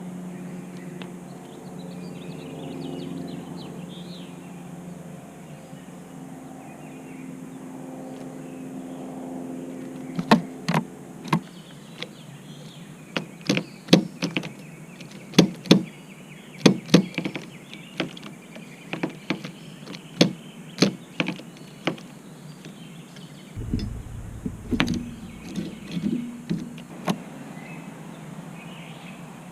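A bird tapping at a car: sharp, irregular knocks in quick runs, starting about a third of the way in. For the first ten seconds or so a steady hum runs underneath.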